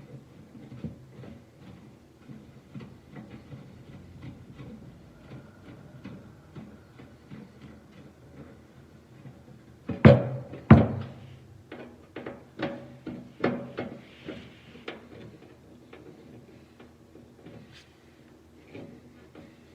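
Scattered knocks and clatters of furnace parts being handled, with two loud sharp bangs about ten seconds in.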